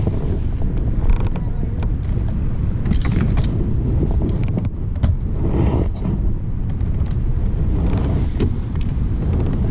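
Strong wind buffeting the microphone in a loud, steady low rumble, with water splashing in short bursts every couple of seconds and scattered small knocks.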